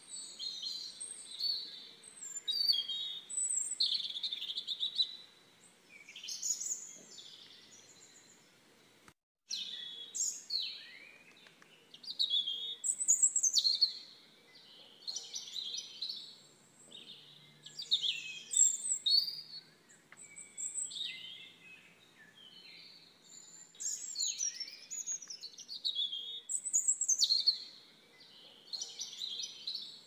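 Songbirds chirping and singing: a continuous run of short, high chirps and trilled phrases. The sound cuts out for a moment about nine seconds in, then the birdsong resumes.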